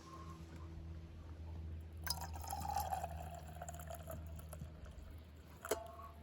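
Liquid being poured, beginning about two seconds in with a tone that slides gently downward, followed by a single sharp knock near the end, over a steady low hum.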